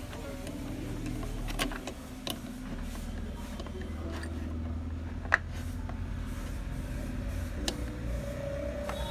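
Pliers tightening a nut on an alternator's earth connection: scattered metal clicks and taps, the sharpest about five seconds in, over a steady low hum.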